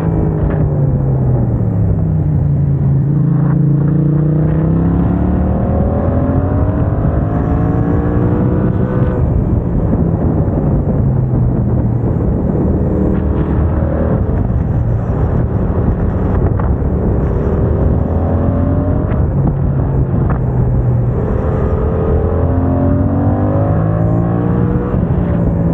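Yamaha MT-07's parallel-twin engine running through a MIVV aftermarket exhaust while riding. The revs fall, then climb again several times, with sudden drops in pitch at gear changes made with the quickshifter.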